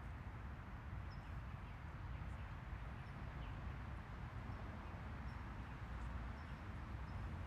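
Outdoor ambience: a steady low rumble of wind on the microphone, with a few faint, brief high chirps from birds.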